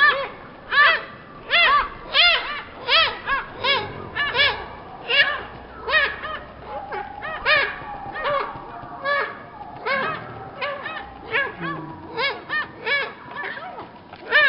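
Great spotted woodpecker nestlings begging from the nest cavity: a steady run of short, arching calls, about two a second.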